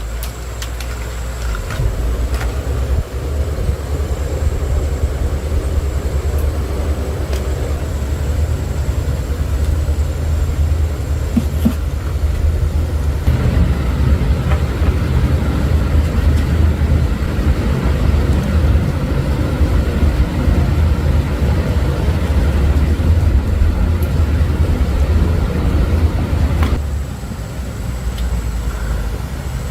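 An engine running with a steady low rumble. It gets heavier about halfway through and eases off near the end.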